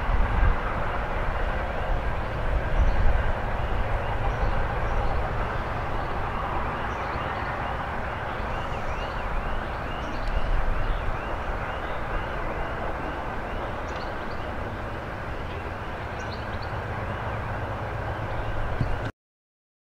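Freight train of tank cars and open wagons rolling past with a steady running noise of wheels on rail, which cuts off suddenly near the end.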